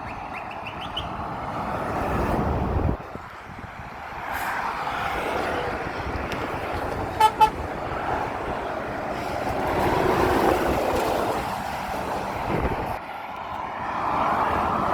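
Two short vehicle horn toots in quick succession about seven seconds in, over the rushing noise of vehicles passing on the road, which swells and fades several times.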